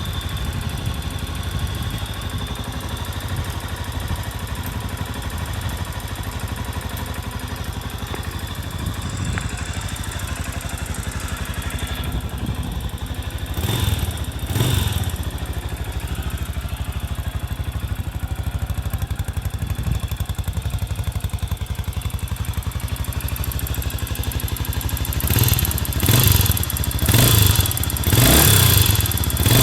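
Kawasaki Estrella RS single-cylinder engine idling through its stock muffler, blipped twice about halfway and then about four times near the end.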